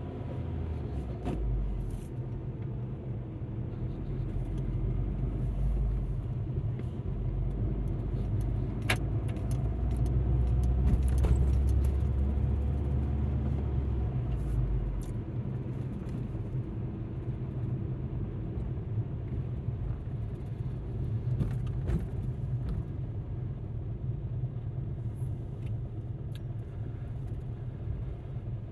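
Alfa Romeo MiTo driving, heard from inside the cabin: steady low road and engine rumble that swells for a few seconds midway, with scattered light clicks and rattles.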